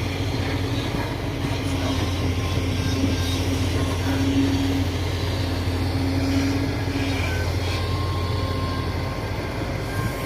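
Heavy diesel engine of a Komatsu D58 bulldozer running with a steady low drone. The deepest part of the hum eases off near the end.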